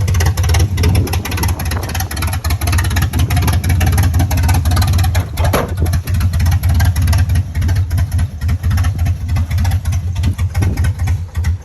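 Truck engine idling with an uneven, loping beat from its cam. The owner says it has bad injectors and needs to be kept on the gas to stay running.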